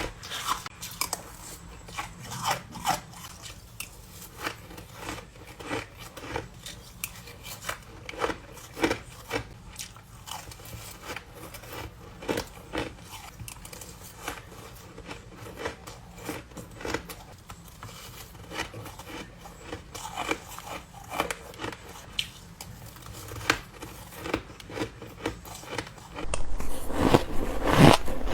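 A person biting into and chewing ice, giving a string of sharp, irregular crunches. Near the end the crunching gets louder and denser.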